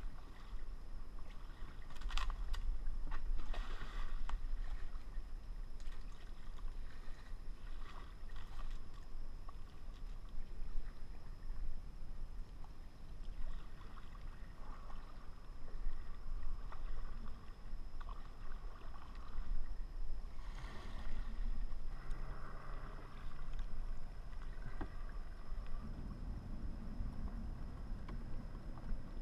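Kayak paddles dipping and splashing in the water at irregular moments, over a steady low rumble.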